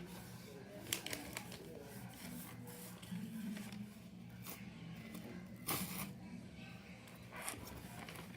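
A sheet of paper being folded and handled: intermittent short crinkles and rustles, the sharpest about a second in and near six seconds.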